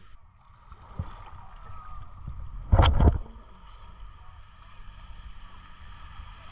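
Beach ambience of sea water washing and gurgling at the shore, with one brief loud low burst about three seconds in.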